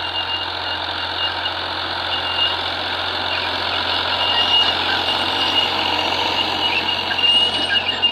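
John Deere tractor's diesel engine running steadily under a dense, even mechanical noise, with a thin high whine that comes and goes.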